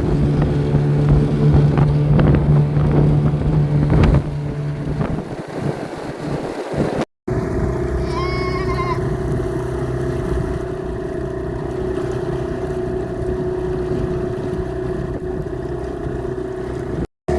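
Dinghy's outboard motor running steadily under way through choppy sea. Its note is lower for the first few seconds, then changes abruptly to a higher, steadier drone about seven seconds in.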